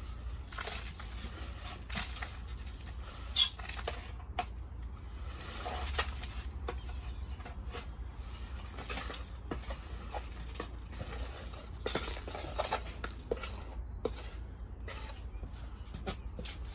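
Hands scratching and rustling through a loose compost and vermiculite potting mix, with scattered small clicks and one sharp knock about three and a half seconds in.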